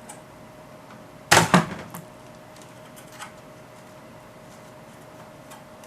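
A sharp knock and clatter a little over a second in, then a few light clicks, over a faint steady tone.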